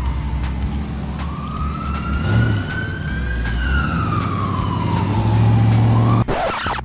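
Emergency-vehicle siren wailing, slowly rising and falling in pitch over a steady low engine rumble. It cuts off abruptly near the end, followed by a short burst of noise.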